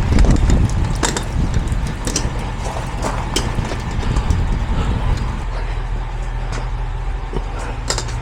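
A vehicle engine idling steadily, with scattered clicks and knocks on top, the busiest in the first few seconds.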